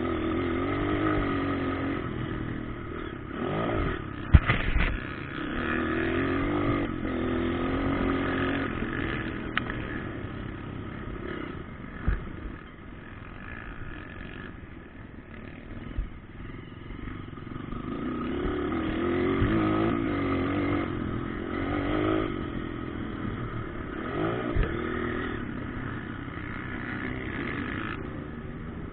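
Motocross bikes running on a dirt track, their engines revving up and falling back in waves as they ride, with a few sharp knocks, the loudest about four seconds in.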